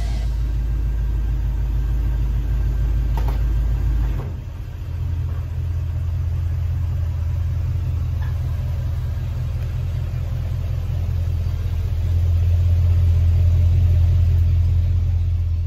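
1976 Corvette Stingray's 350 small-block V8 idling with a steady low rumble. Its note shifts about four seconds in, and it gets louder near the end.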